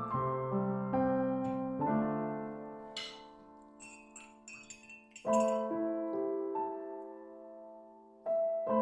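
Soft background piano music, slow notes struck and left to ring. A few light clinks sound between about three and five seconds in, while the notes fade.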